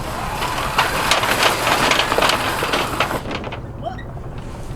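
Catamaran's mainsail being let drop hard: about three seconds of loud sailcloth rustling and flapping with clattering rattles, dying away a little after three seconds in. A steady low drone runs underneath.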